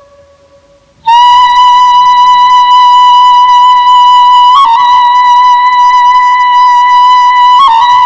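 Background music: a flute-like wind instrument holds one long, loud high note with rich overtones. It starts about a second in and wavers briefly twice.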